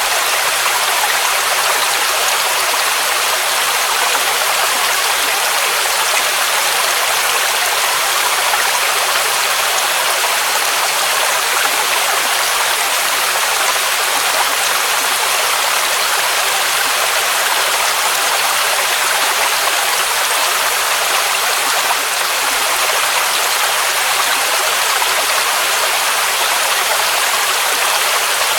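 Waterfall rushing steadily: an even, unbroken hiss of falling water, bright and high with almost no low rumble.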